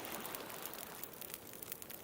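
Beach bonfire crackling with many small sharp pops, over a steady wash of ocean waves.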